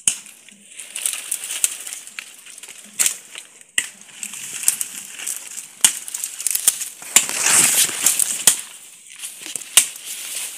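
Dry branches, twigs and leaves rustling and snapping as fallen brush is cleared by hand, with many sharp cracks and a longer, louder rustle about three quarters of the way through.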